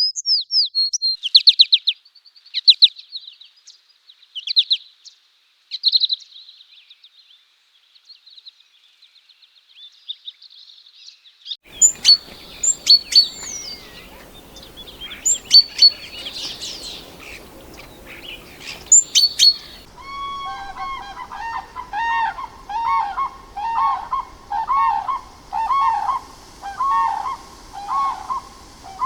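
Bird calls in three separate takes. First come rapid, high trilled chirps. Next are sharp chirps over a noisy background, and last a lower call repeated over and over, about once or twice a second.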